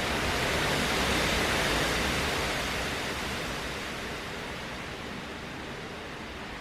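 Hurricane wind rushing in a long gust, a steady roar of noise that swells over the first couple of seconds and then slowly dies down.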